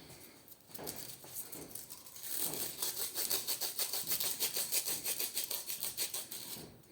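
Sandpaper rubbed quickly back and forth by hand on the steel shaft of an air-conditioner fan motor, a scratchy rasp of many strokes a second that grows louder about two seconds in and stops shortly before the end. The sanding removes a burr at the retaining-clip groove that was keeping a part from sliding off the shaft.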